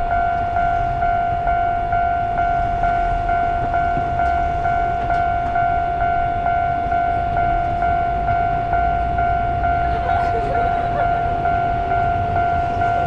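Railway level-crossing warning bell ringing steadily, a clanging tone repeating about two to three times a second, over the low rumble of a train.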